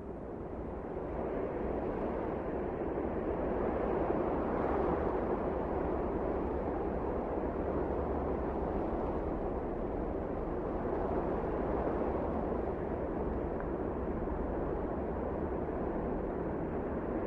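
Wind blowing steadily with a deep rumble beneath, swelling over the first few seconds and then holding even.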